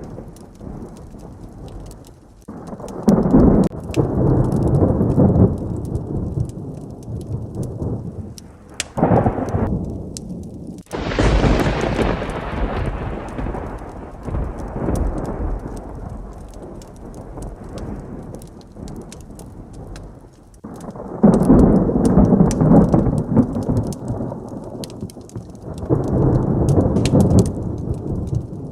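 Heavy rain with thunder rolling in five times. The loudest is a sudden sharp crack about eleven seconds in that rumbles off slowly over several seconds.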